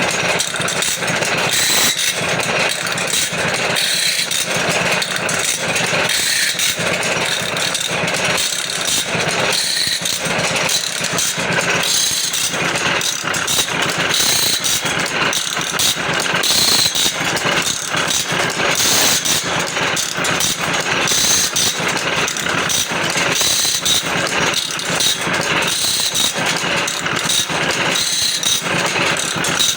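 Automatic band saw blade sharpening machine running: the grinding wheel works the teeth while the feed pawl ratchets the blade along, a steady, dense mechanical clatter of clicks.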